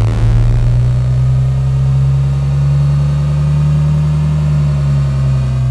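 Playback of a layered engine-like sound effect: a loud, bass-heavy drone with a steady low hum under thinner tones that glide slowly upward.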